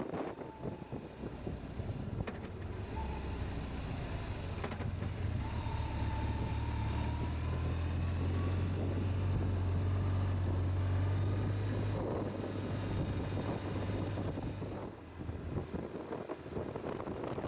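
A vehicle engine's low steady hum with wind noise. It swells a few seconds in and fades away near the end.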